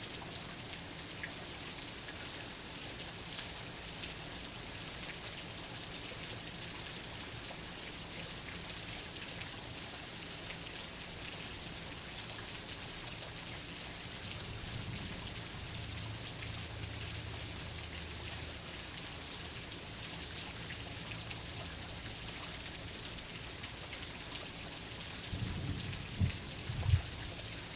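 Steady rain hissing throughout, with a faint low rumble of thunder about halfway through and two louder low booms of thunder near the end.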